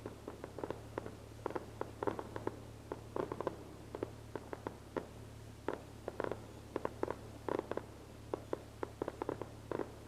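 Fireworks going off in the distance: a dense, irregular run of short pops and crackles, several a second, over a steady low hum.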